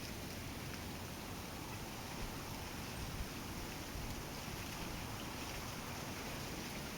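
Faint, steady outdoor background noise with no clear birdsong, and a couple of light taps about two and three seconds in.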